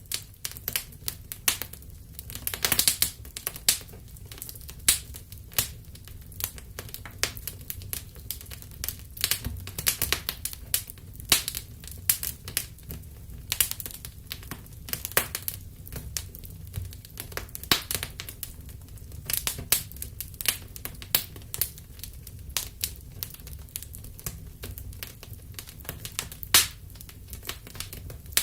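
Wood fire crackling in a fireplace: irregular sharp pops and snaps, some loud, over a steady low background of the burning fire.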